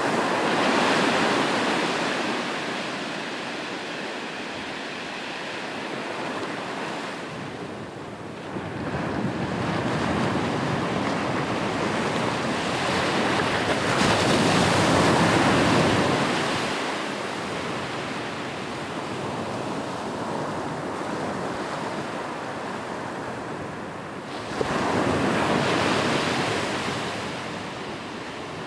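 Sea waves breaking and washing on a shore, the surf rising and falling in slow swells, with the loudest surges about a second in, near the middle and again near the end.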